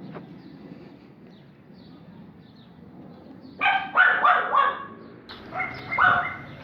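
A dog barking: a quick run of barks about three and a half seconds in, then a second run a moment later.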